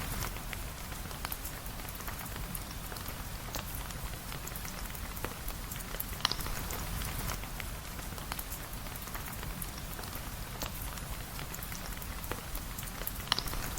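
Steady rain falling on a surface, with many small drop taps through it and a couple of sharper clicks, one about six seconds in and one near the end.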